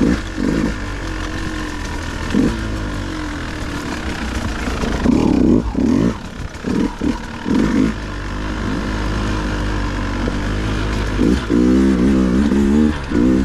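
Dirt bike engine revving in repeated short throttle bursts, its pitch climbing and dropping, over a steady low rumble, with a longer run of revving near the end.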